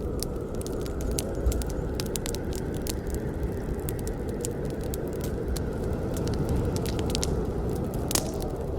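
Campfire burning: a steady low rumble of flames with frequent irregular crackles and pops from the burning wood, one louder pop about eight seconds in.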